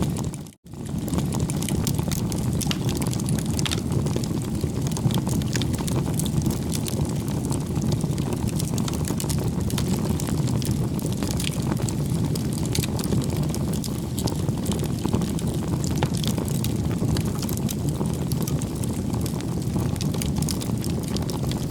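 Wood fire burning with a steady low rush and many small sharp crackles and pops. The sound cuts out for a moment about half a second in, then resumes.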